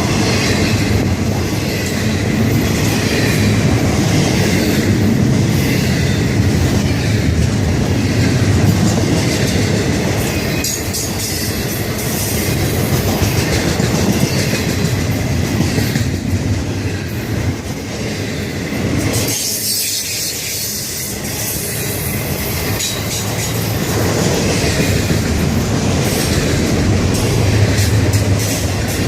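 Florida East Coast freight train's cars rolling past at speed: a continuous clatter of steel wheels on the rails, easing briefly about twenty seconds in.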